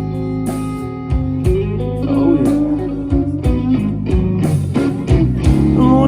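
Live blues-rock band playing an instrumental passage: electric guitar lines with bent notes over bass and drums keeping a steady beat.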